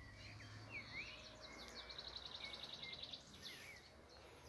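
Songbirds singing faintly, with curving chirps and, near the middle, a rapid trill of quickly repeated high notes.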